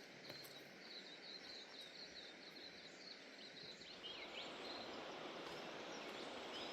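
Faint bush ambience: a bird calls in a quick run of high chirps for the first few seconds, then gives a couple of falling whistles, over a steady rushing haze of distant river water.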